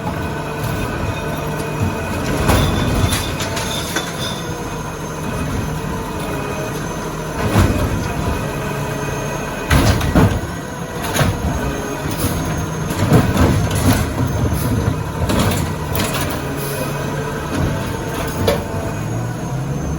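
Autocar ACX garbage truck's diesel engine running steadily with a constant whine over it, broken by repeated sharp clanks and bangs of metal. Near the end the engine starts to rev up.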